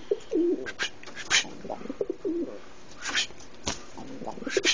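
A pet bird making repeated low, bending cooing calls while being scratched, mixed with several short noisy bursts.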